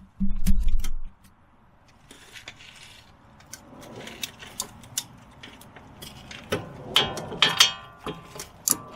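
Hand tools and metal parts clinking and clattering during car repair work, with scattered sharp clicks. A heavier low knocking comes in the first second, and a denser burst of ringing metal clatter comes about seven seconds in.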